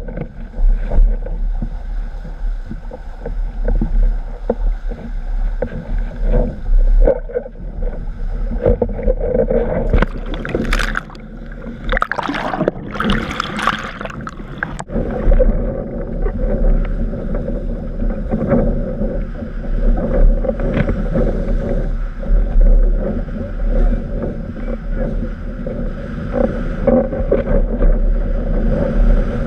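Wind buffeting the microphone over the rush of water past a windsurf board sailing in strong wind. There is a louder hiss of spray from about ten to fifteen seconds in.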